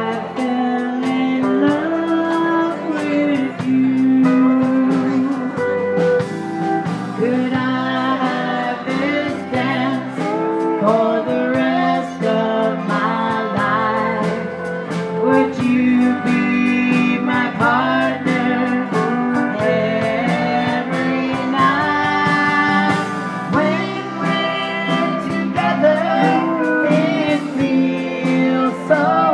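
A live band playing an instrumental passage of a country song, led by guitar with sliding notes typical of a steel guitar.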